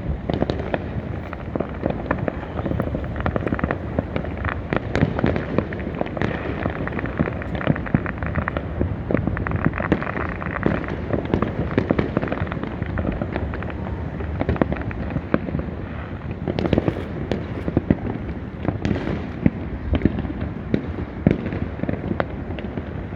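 Many fireworks and firecrackers going off at once, a continuous barrage of bangs and crackling with no pause.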